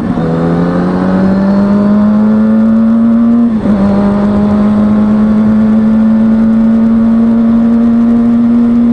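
2003 Kawasaki ZX-6R 636's inline-four engine accelerating through the gears. It shifts up right at the start and again about three and a half seconds in, each shift a brief dip in the note. After that it holds a steady high-pitched drone.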